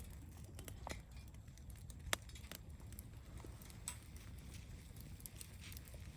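Campfire burning with irregular faint crackles and pops from the wood, one sharper pop about two seconds in, over a low rumble.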